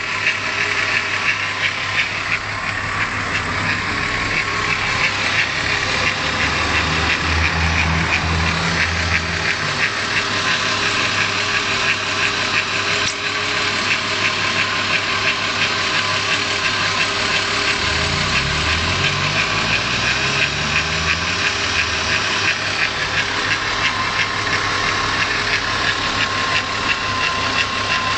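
Volkswagen VR6 narrow-angle V6 engine idling with a fast, continuous ticking rattle: the engine noise the owner is investigating. Its low note shifts briefly twice.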